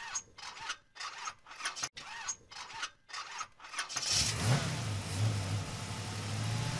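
Car engine cranking on the starter in rapid regular pulses, catching about four seconds in, then running steadily after a short rev.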